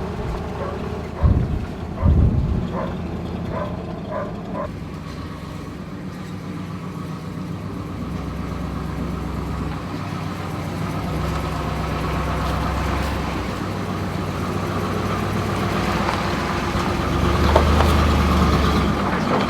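A few knocks and short squeaks, then a vehicle engine running steadily at low speed and growing slightly louder near the end.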